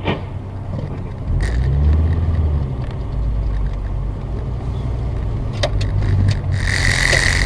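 Car engine and road noise heard from inside a moving car, a steady low drone that grows louder about a second in, with a few sharp clicks and a short high hiss near the end.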